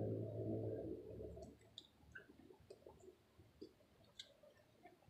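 A passing car's engine, a low steady drone that fades away within the first second and a half, followed by faint scattered small clicks from lips puffing on a tobacco pipe.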